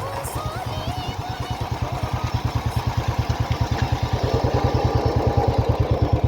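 Single-cylinder motorcycle engine idling with an even, rapid low thump, getting slightly louder towards the end.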